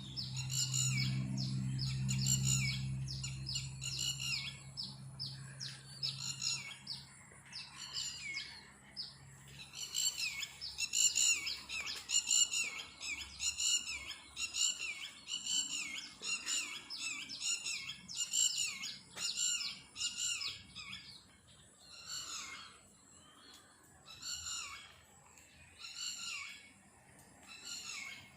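A songbird singing a loud, fast song of repeated high notes, several a second, which breaks into short separate phrases after about twenty seconds. A low hum sounds underneath in the first few seconds.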